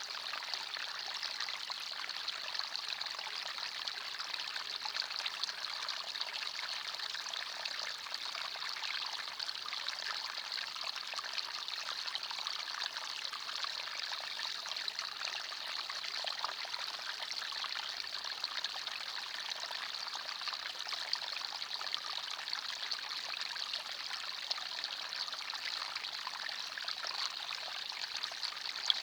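A small forest stream running steadily over stones, an even babbling and trickling of water.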